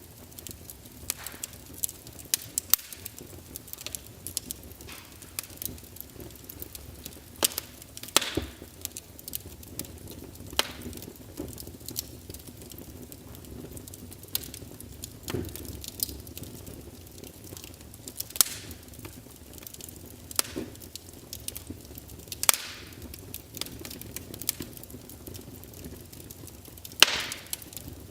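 Fire crackling in a fireplace: scattered sharp pops and snaps at uneven intervals over a low steady rustle of burning, the loudest pop near the end.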